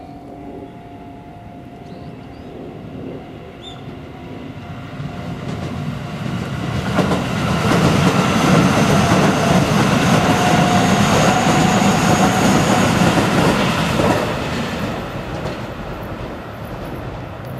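Electric commuter train running past a station platform, its rumble and wheel clatter growing louder for several seconds, then fading away, with steady whining tones over it.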